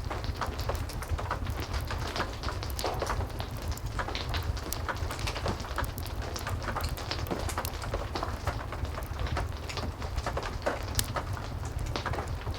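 Heavy rain falling steadily, with a crackling wood fire: many sharp little pops and snaps over the rain's hiss and a low rumble.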